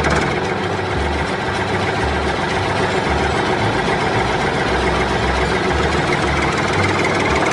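An engine running steadily with a low chugging underneath, the sound that goes with the miniature tractor driving and plowing.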